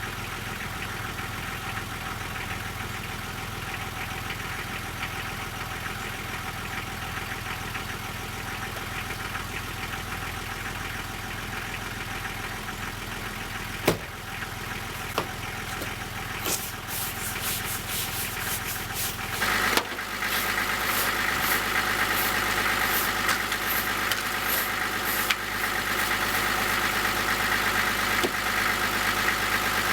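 Toyota Land Cruiser HJ60's straight-six diesel idling steadily, with a sharp click about halfway through. About two-thirds of the way in, the engine sound changes and grows louder, holding at that higher level to the end.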